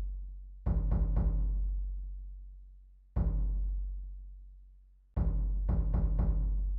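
Slow, deep drum music: booming drum strikes that ring out and fade. There is a short run of quick strikes about a second in, a single strike a little past three seconds, and another run from about five seconds.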